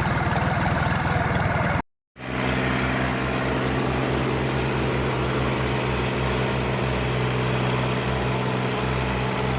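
Tractor diesel engine running under load. About two seconds in the sound cuts out for a moment, then a steady engine run resumes with an even low throb.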